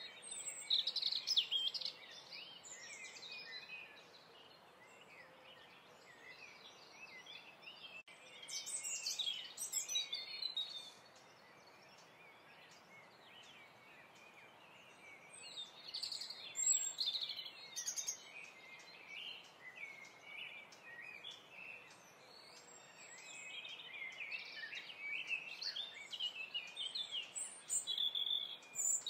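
Small birds chirping and twittering in busy bursts with quieter stretches between, over a steady faint hiss.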